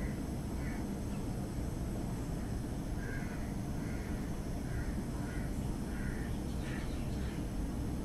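A bird calling over and over in short, harsh calls, about nine of them, coming closer together in the second half, over a steady low background rumble.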